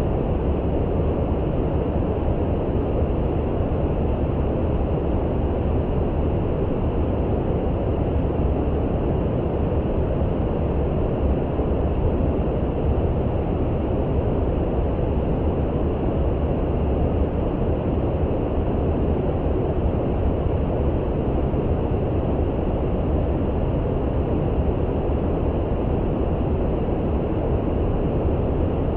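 Steady brown noise: an even, low, rumbling hiss with no changes, strongest in the bass and dull in the treble.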